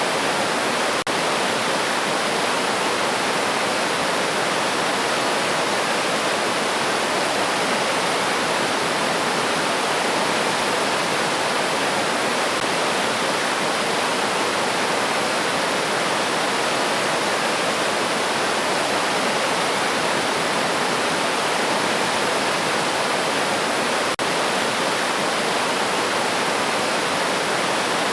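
Steady rushing of a river stream: an even, unbroken water hiss.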